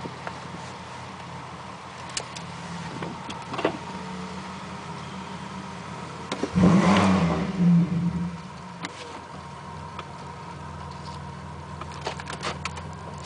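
1999 Pontiac Grand Prix GT's 3.8-litre V6 idling, with one quick rev about six and a half seconds in that lasts about a second and a half before it settles back to idle. A few light clicks are heard here and there.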